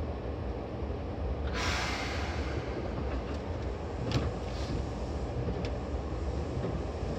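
Interior running sound of a Seibu 2000 series electric multiple unit, heard from the floor above its line breaker: a steady low rumble, with a burst of hiss about a second and a half in that fades away, and a few sharp clicks around the middle.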